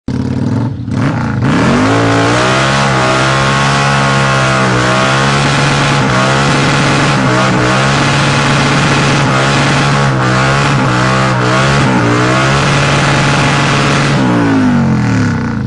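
Cruiser motorcycle engine revved hard and held at high revs in a burnout, the rear tyre spinning and smoking. The revs climb about a second and a half in, waver slightly while held, and drop away near the end.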